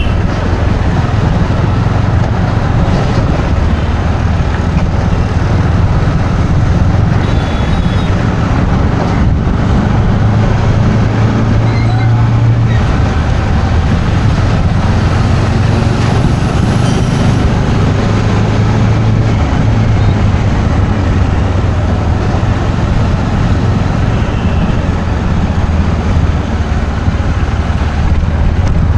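Steady road-vehicle noise: a running engine's low drone with tyre and traffic noise, unbroken throughout.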